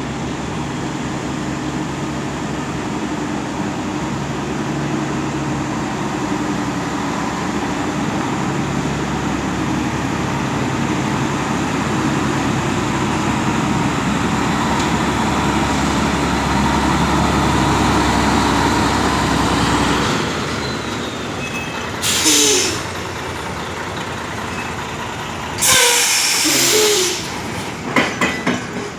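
Scania truck's diesel engine running steadily and growing slightly louder, then dropping away about twenty seconds in. Two loud air-brake hisses follow, the second one longer, then a few short hisses near the end.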